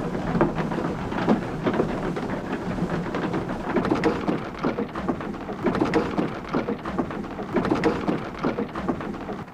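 Water-powered sawmill's waterwheel and drive running: a steady rush and splash of water with a rumble and many small, irregular knocks from the turning machinery.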